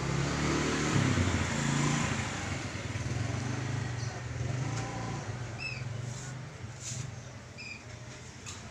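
A motorcycle engine runs steadily, with its pitch shifting and loudest about one to two seconds in, then easing off. Two short high bird chirps come in the second half.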